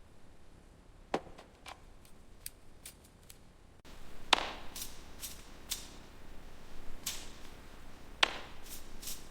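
Irregular sharp clicks and taps, with louder ones about a second in, about four seconds in and near the end, over a faint hiss that comes up about halfway through.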